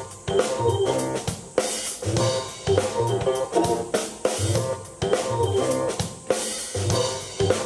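Live keyboard and drum kit duo playing a rock jam: a steady drum beat with bass drum and snare under keyboard chords and a low bass line.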